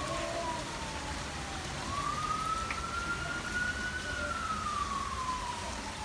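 A siren wailing in a slow cycle, its pitch rising over about two seconds and falling over about three, over the steady hiss of rain.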